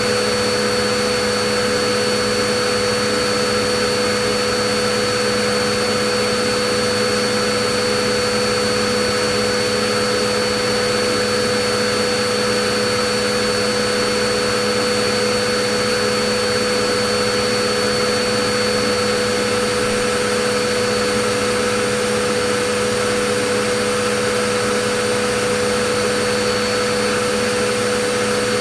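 Vacuum cleaner running steadily: a constant whooshing hiss with a steady motor hum and whine, unchanging throughout.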